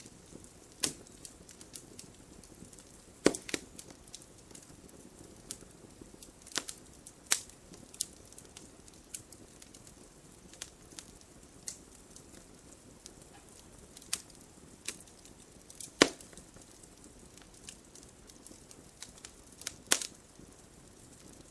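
Wood fire burning in a fireplace: a soft steady hiss with scattered sharp crackles and pops of the burning logs, a few of them much louder.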